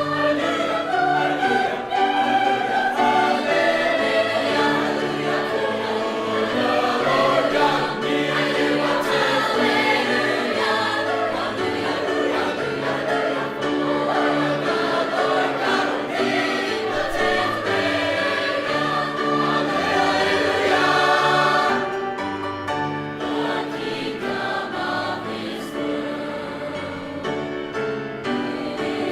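High school choir singing a Christmas song, many voices holding sustained chords that move from note to note; it eases a little in loudness after about twenty-two seconds.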